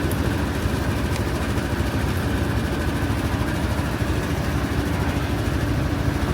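Honda Helix 250 cc single-cylinder four-stroke scooter engines idling steadily after a cold start at 1°F.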